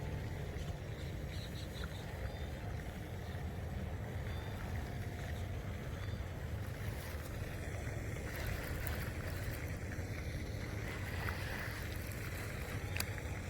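Steady low outdoor rumble with no clear events, only a few faint clicks.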